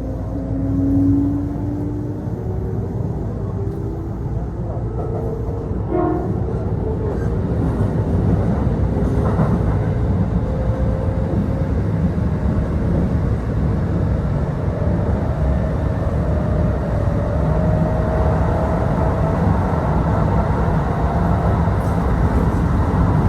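Kintetsu Osaka Line local train heard from inside the car as it pulls away: the traction motors whine in several tones that climb steadily in pitch, over a steady rumble of the wheels on the rails.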